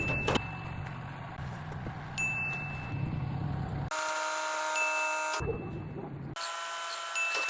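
Vehicle running on the road with a steady low rumble. It is broken twice by abrupt cuts to short stretches of steady ringing tones.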